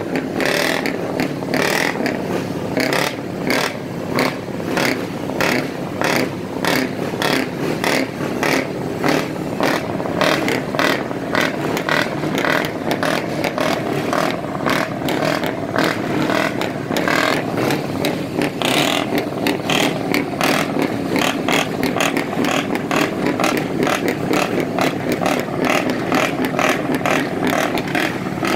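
Scania V8 truck engines running through aftermarket exhausts: a loud, steady diesel rumble with sharp cracks repeating about twice a second.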